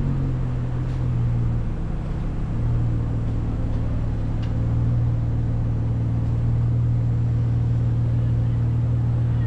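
Jeep engine running steadily at low revs, heard up close through the hood, a constant low hum that grows a little louder about five seconds in.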